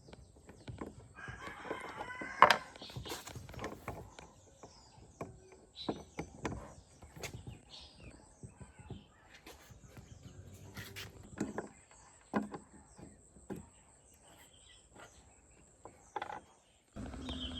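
A rooster crows once, about a second in, lasting roughly a second and a half. Scattered sharp clicks and light knocks follow.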